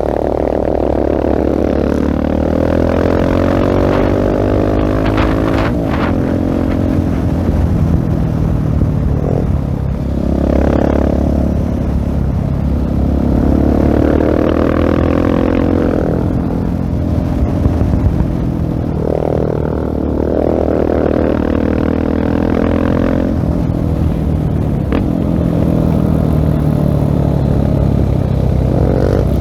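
Husqvarna 701 Supermoto's single-cylinder engine through a LeoVince full-system exhaust, ridden hard. Its pitch climbs and drops back again several times.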